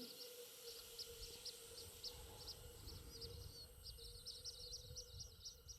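Faint chatter of small birds: many short, high chirps in quick succession, busier in the second half, over a steady faint hum.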